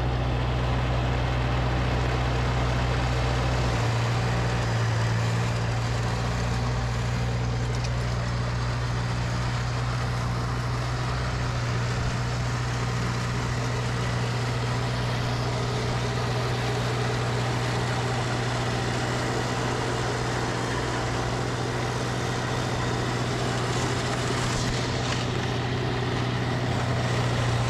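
Tractor engine running steadily while driving a PTO-mounted snowblower through wet, sticky snow; a constant hum, with the deepest rumble easing off about four seconds in.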